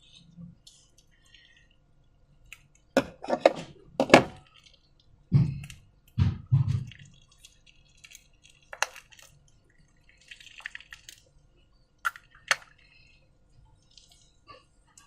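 Slime being handled: a few wet squelches, with sharp taps and clinks of containers in separate bursts and quiet in between.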